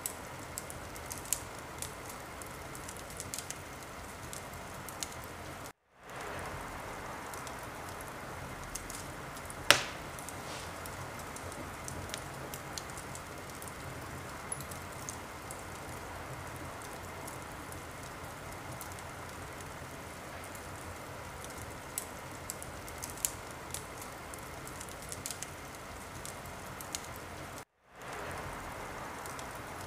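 Wood fire burning in a fireplace: a steady hiss with irregular sharp crackles and pops, the loudest pop about ten seconds in. The sound cuts out briefly twice, near six seconds and near the end.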